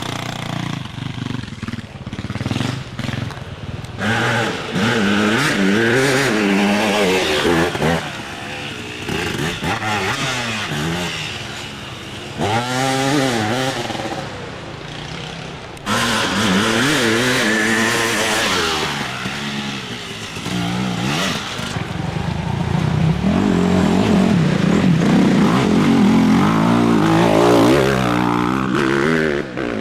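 Dirt bike engines revving up and falling back as several bikes race past one after another, their pitch rising and dropping with each pass.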